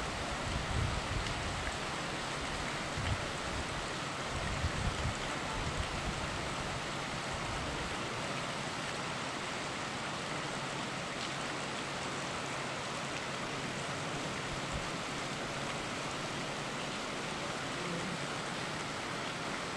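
Steady rushing noise of rain and a flowing river, with some low rumbling in the first six seconds.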